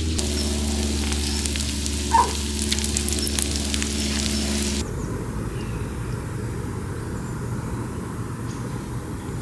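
Pork belly sizzling and spattering on a cast-iron cauldron-lid griddle over a steady low hum. About five seconds in, the sound changes abruptly to a quieter, even crackle.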